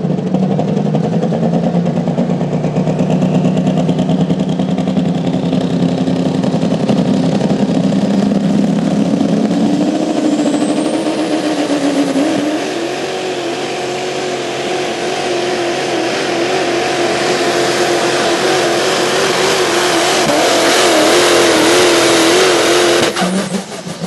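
2005 Ford F-250 diesel pulling truck running at full throttle while pulling the sled. The engine note climbs steadily for about twelve seconds, then holds high with a wavering pitch, and cuts off abruptly near the end as the run finishes.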